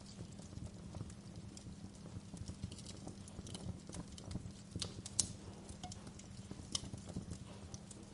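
Fire crackling: irregular sharp pops and ticks over a low steady rumble of flame, with the two loudest pops about five and seven seconds in.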